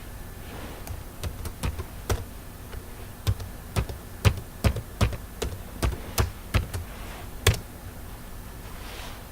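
Computer keyboard being typed on: a run of irregular keystrokes over about six seconds, ending with one harder key press. The typing is a passphrase being entered to unlock the newly encrypted USB partition.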